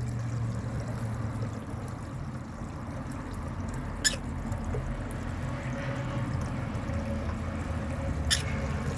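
Steady trickle of running water with a low hum underneath, broken by two sharp clicks, about four and eight seconds in.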